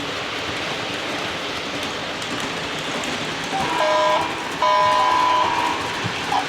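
O scale model train running along its track with a steady rushing hiss. About halfway through, its onboard sound system sounds the horn twice: a short blast, then a longer one.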